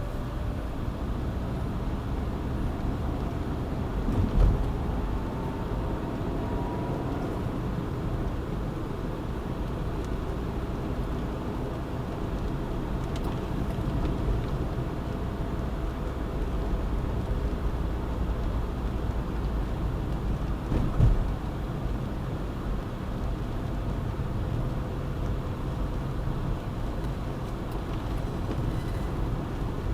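Car driving on a city highway: a steady rumble of road and engine noise, with two short thumps about four seconds in and again about twenty-one seconds in.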